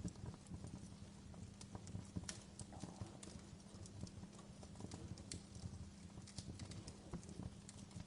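Wood fire crackling in a fireplace: a steady run of irregular small pops and snaps over the low rumble of the burning logs, with a faint steady hum beneath.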